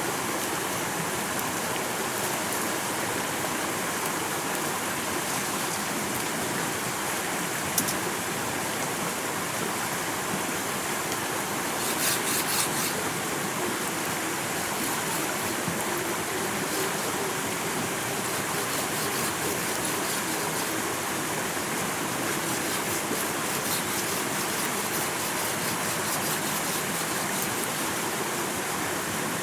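Steady rushing water noise, even and unbroken throughout. A single sharp click about eight seconds in and a short flurry of clicks about twelve seconds in.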